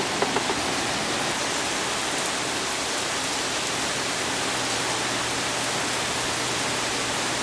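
Heavy hurricane rain pouring down steadily, an even, unbroken hiss of downpour.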